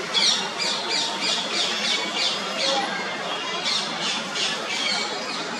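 A bird calling: a run of short, harsh, high notes, each dropping in pitch, repeated about three times a second, with a brief pause a little past halfway. The calls sit over a steady murmur of background noise.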